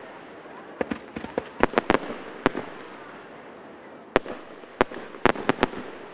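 Fireworks display: shells bursting in a quick string of sharp bangs with crackling between them, a cluster in the first two and a half seconds, then a quieter spell and another run of bangs after about four seconds.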